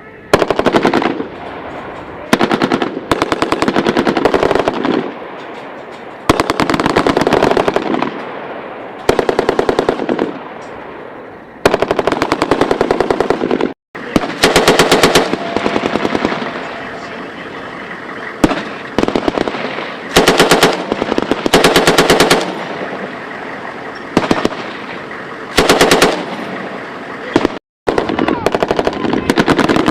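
Automatic weapons firing in repeated bursts of rapid shots, each burst lasting one to two seconds, with the report echoing and fading between bursts.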